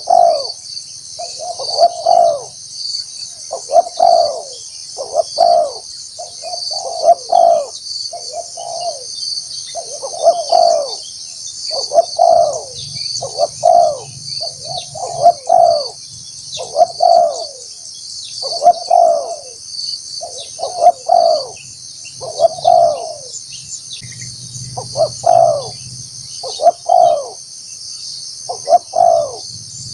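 Spotted dove cooing over and over, short calls every second or two, as a trained decoy dove calls to lure wild doves. A steady high insect shrilling runs behind it.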